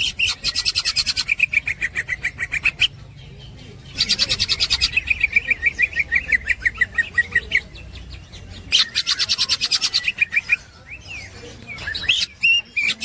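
Green leafbird (cucak ijo) singing in rapid chattering 'ngekek' runs of about nine high notes a second. Three long runs are broken by short pauses, and a few shorter calls come near the end.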